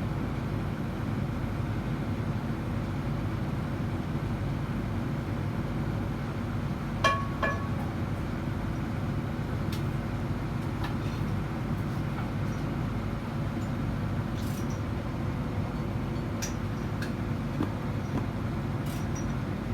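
Steady low machinery drone, with a single ringing metal clink about seven seconds in and a few faint ticks and clicks of tools after it.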